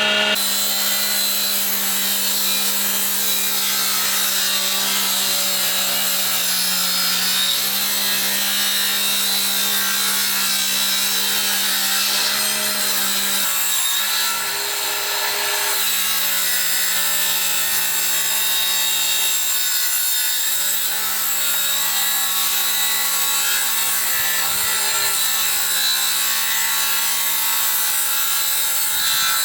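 Power tool working wood: a steady motor hum under a continuous rasping hiss of cutting, with brief dips in level now and then.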